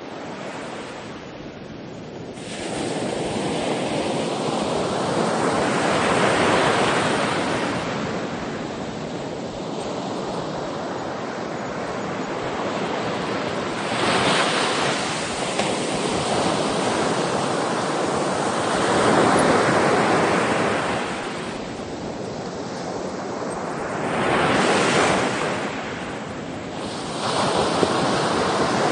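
Ocean waves breaking and washing onto shore, the surf swelling and ebbing every few seconds, with some wind on the microphone.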